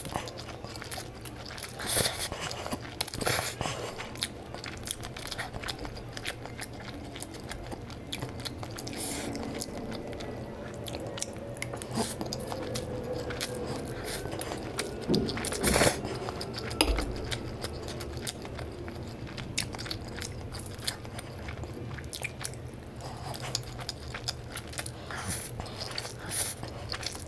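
A person chewing and biting mouthfuls of spicy Korean instant noodles close to the microphone, with many sharp wet mouth clicks. The loudest moment is about sixteen seconds in.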